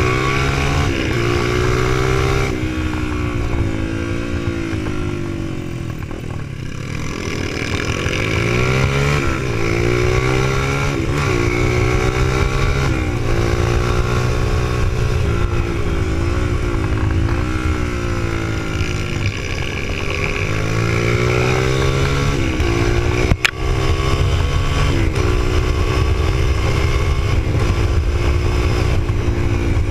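Supermoto motorcycle engine heard from on board, revving up and dropping back again and again as the bike accelerates out of corners and brakes into them. A single sharp click cuts through a little past three quarters of the way in, with a brief dip in the sound.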